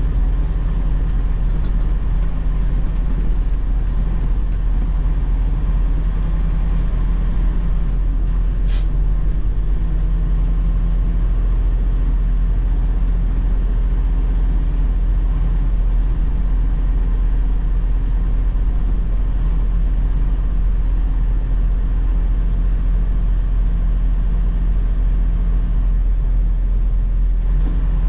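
Semi-truck diesel engine and road rumble heard steadily from inside the cab while driving, with one brief click about nine seconds in.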